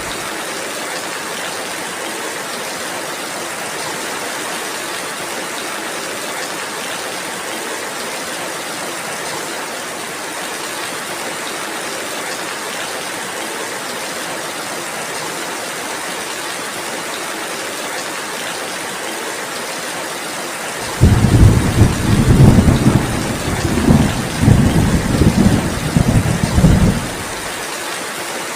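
Steady rainfall, an even hiss. About two-thirds of the way through, a long low roll of thunder swells in several peaks and fades out after about six seconds.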